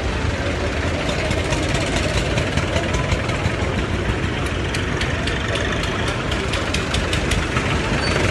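Tractor engines running steadily, with a run of sharp clicks or taps through the middle.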